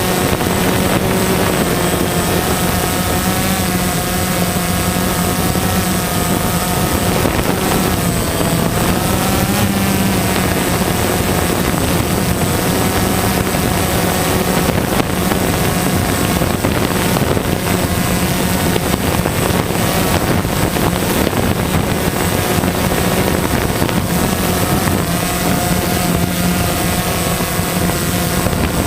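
DJI Phantom quadcopter's four motors and 9-inch propellers whirring steadily in flight, the pitch rising and falling slightly with throttle, over wind noise on the microphone.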